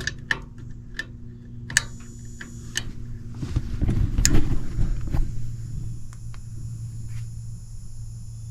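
Sharp clicks and tool-and-wire handling at a gas furnace's control wiring while the thermostat call is jumped, over a steady low electrical hum; a louder stretch of rumbling, bumping handling noise comes near the middle. Then a faint steady high whine sets in, but no inducer motor starts up.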